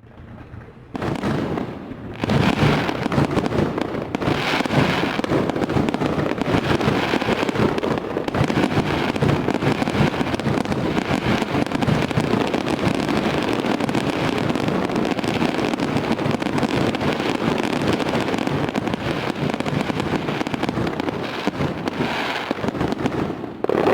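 Fireworks going off in a dense, continuous barrage of bangs and crackles. It comes in out of silence within the first two seconds and falls away right at the end.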